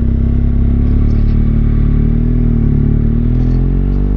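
BMW R1200GS Adventure's boxer twin engine running under way, steady at first and then rising in pitch about three seconds in as the bike accelerates.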